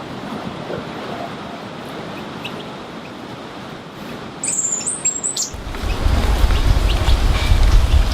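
A grey-headed canary-flycatcher gives a short, high, thin call in a few stepped notes ending in a quick downward slide, about four and a half seconds in, over a steady rushing background. About a second later a loud, low rushing rumble comes in and continues.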